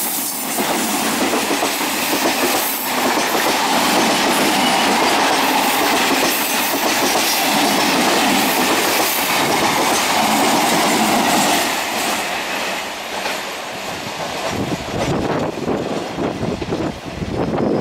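A 12-car electric multiple unit suburban train passing close at speed: loud rumble of wheels on rail with the clickety-clack of the wheels over rail joints. The noise eases somewhat after about twelve seconds as the last cars go by.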